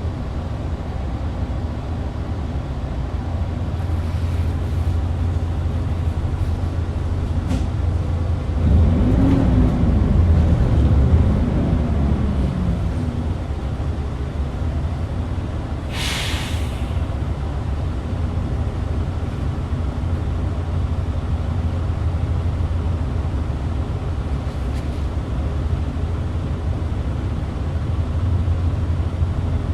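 Hyundai New Super Aero City bus engine running with a steady low drone. Around the middle it revs up and then falls back as the bus pulls away. A few seconds later there is a short, sharp hiss of air from the bus's air system.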